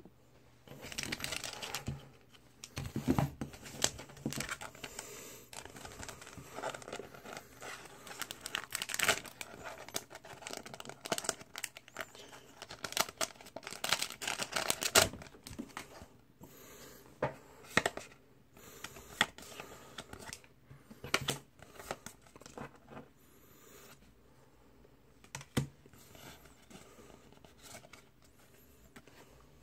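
Packaging being torn open and crinkled by hand, with irregular rustling and sharp rips, busiest in the first half and sparser later on.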